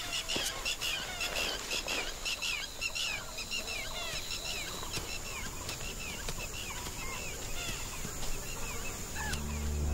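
A chorus of small birds chirping: many short, quick calls overlapping, busiest at first and thinning out. Soft music comes in near the end.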